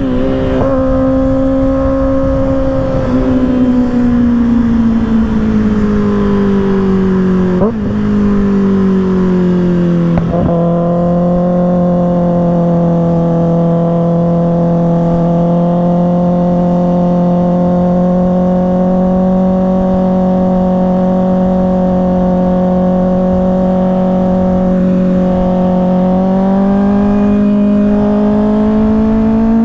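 2024 Kawasaki ZX-6R's inline-four engine through an M4 aftermarket exhaust, heard from on the bike: the engine note falls steadily as the throttle is eased off, holds at a steady cruise for most of the stretch, then climbs again near the end as it accelerates. Two brief clicks come about eight and ten seconds in.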